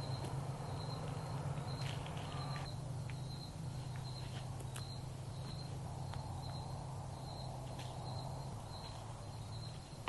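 Insect chirping, a short high chirp repeating a little under twice a second, over a steady low hum, with a few scattered faint clicks.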